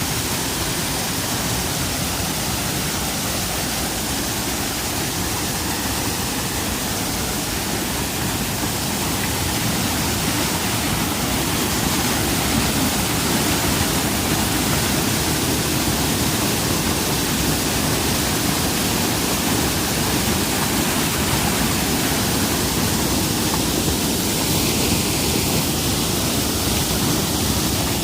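Waterfall rushing: a steady, dense noise of falling water that gets a little louder about ten seconds in.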